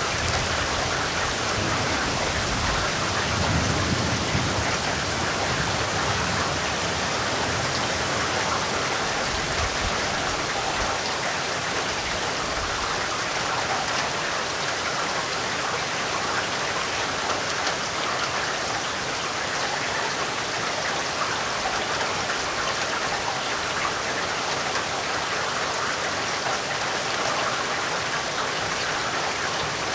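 Steady heavy rain falling and pattering on surfaces, with a low rumble underneath during the first dozen seconds or so that then dies away.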